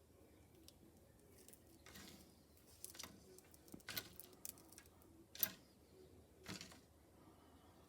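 Scattered faint clicks and light rustles, with one sharper click about five and a half seconds in.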